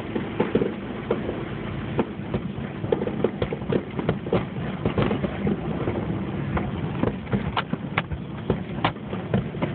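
Fireworks grand finale: a dense, irregular barrage of aerial shells launching and bursting, many bangs and pops over a continuous rumble, with some of the sharpest bangs near the end.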